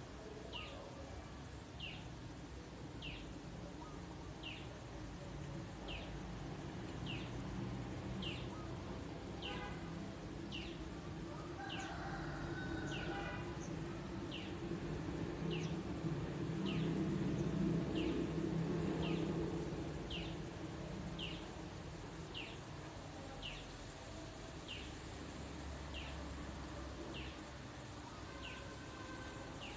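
A bird repeating a short, falling high chirp about once a second at an even pace, over a low background drone that swells up and fades away in the middle.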